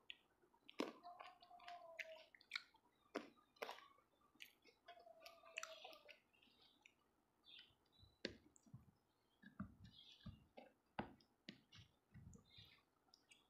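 Close-up eating sounds: soft wet mouth clicks and chewing of fruit, heard as many small sharp ticks, with a few low thuds in the second half as the fruit is handled.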